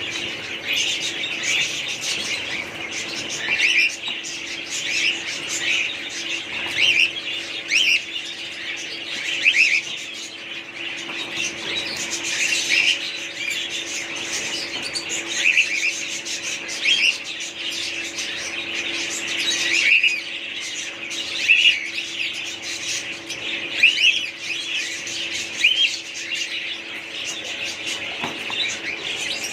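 A flock of small birds chirping and chattering continuously, many short shrill calls overlapping, typical of caged pet birds.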